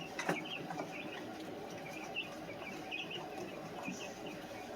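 Baby chicks and guinea keets peeping: many short, high cheeps overlapping steadily, with a faint click a moment in.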